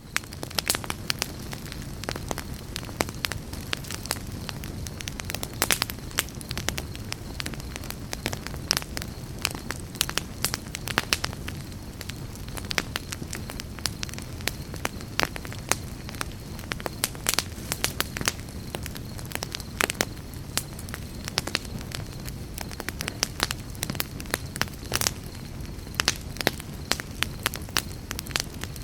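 Wood campfire burning with a steady low rumble and dense, irregular crackles and pops.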